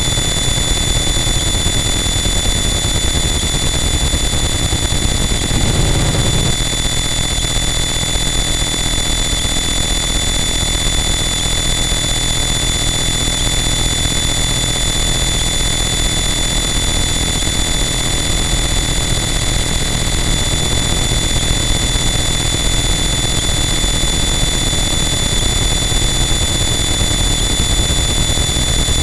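Harsh noise wall: a loud, unchanging wall of dense static with steady high-pitched whistling tones running through it. A brief low rumbling swell rises about six seconds in.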